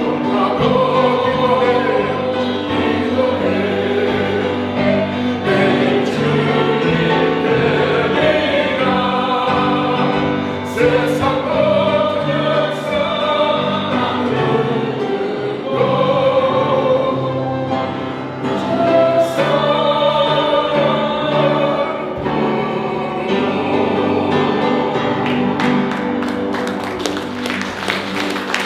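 A choir sings a hymn in several voice parts, held notes moving in steps, with the sound tapering off near the end.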